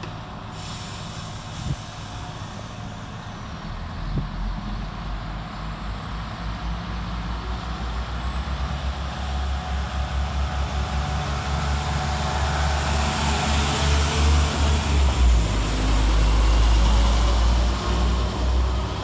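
Two coupled Class 172 Turbostar diesel multiple units running through the station. The diesel engine rumble grows steadily louder and is loudest near the end, with a faint high whine rising in pitch.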